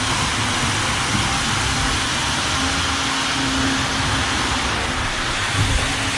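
Model steam locomotive running around a layout: a steady rumble of wheels on track with a faint motor hum.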